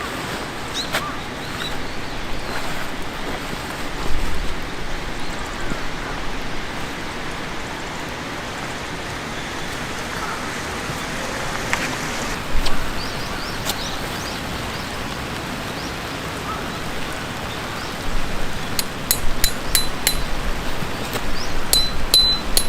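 Steady rushing noise with scattered faint clicks; in the last few seconds comes a quick run of sharp clinks, each with a brief ringing tone.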